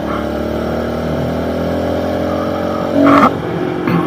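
Small pit bike engine running while riding, its pitch slowly falling as it eases off. About three seconds in there is a short, loud burst.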